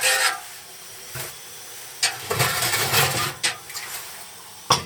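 Propane canister camp stove burner running with a steady rushing hiss. Metal cookware is handled over it, with louder clattering stretches and a sharp knock near the end.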